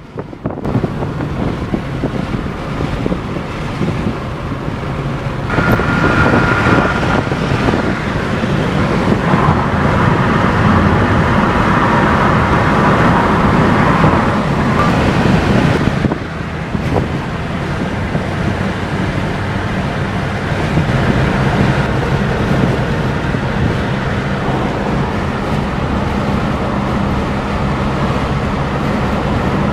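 Car driving at road speed in heavy rain: steady engine and tyre noise with wet road and rain hiss, rising to a louder rush for about ten seconds near the middle.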